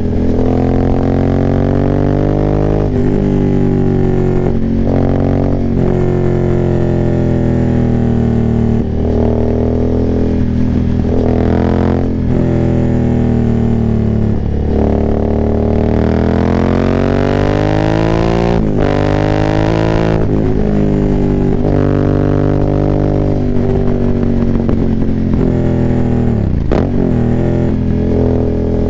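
Aprilia Dorsoduro 900's V-twin, uncorked through a decatted full Arrow exhaust with no dB killers, pulling up through the revs again and again, the pitch breaking and dropping at each gear change. There is one long climb in the middle, and the pitch falls steeply near the end as the bike slows.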